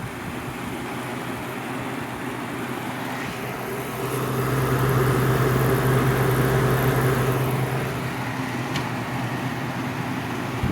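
1996 Whirlpool air conditioner running, its compressor humming steadily under the rush of the fan. The hum swells louder for a few seconds in the middle, then settles back.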